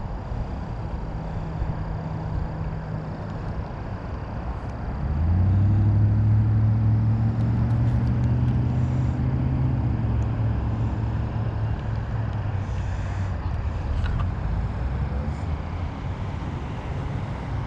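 Low engine hum of a nearby motor vehicle that grows louder about five seconds in, holds for a few seconds, then slowly fades, over a steady background of road traffic.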